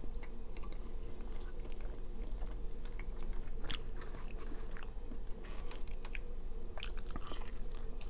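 A person chewing food close to the microphone, with scattered wet smacks and clicks over a steady low hum.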